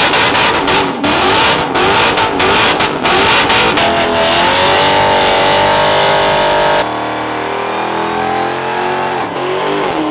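Performance car engines revving hard, the pitch rising and falling, then held at high revs for a couple of seconds. About seven seconds in the sound cuts abruptly to a quieter engine revving up and down.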